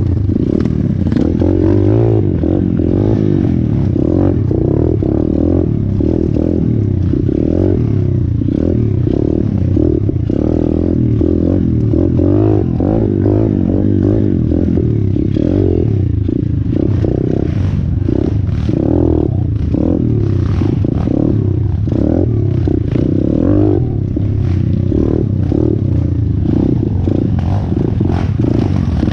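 Small single-cylinder four-stroke engine of a 125cc pit bike running under riding load, its pitch rising and falling over and over as the throttle is worked, with steady rattling and clattering from the bike over rough ground.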